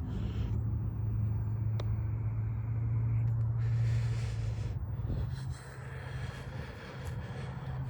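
A steady low engine hum, which drops in level and shifts slightly higher in pitch about five and a half seconds in. A short hiss comes over it about three and a half seconds in.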